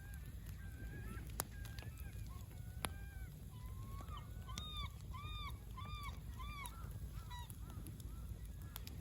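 Geese honking, many arched calls, with a quick run of four in a row about halfway through. A few sharp pops, from the campfire, and a low steady rumble underneath.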